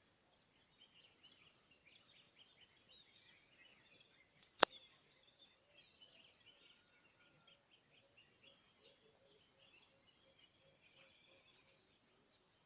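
Faint birds chirping and trilling, many short calls overlapping, with one sharp click a little over four and a half seconds in.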